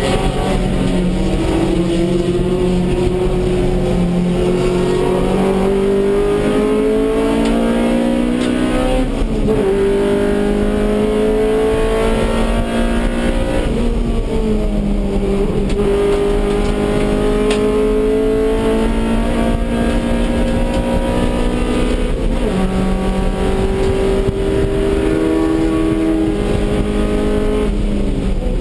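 Honda Civic's B18C5 1.8-litre DOHC VTEC four-cylinder engine running hard at racing pace, heard from inside the stripped cabin. Its pitch climbs and falls with throttle and gear changes, with sharp shifts about a third of the way in, about halfway, and about three-quarters of the way through.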